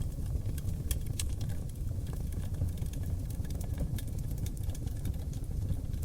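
Oak logs burning in a wood fireplace: a steady low rumble of flames with irregular sharp crackles and pops scattered throughout.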